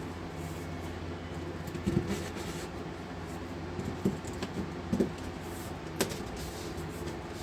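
Short knocks and clunks, about four or five, as lengths of PEX pipe are handled and dropped into holes drilled through a wooden floor, over a steady low hum.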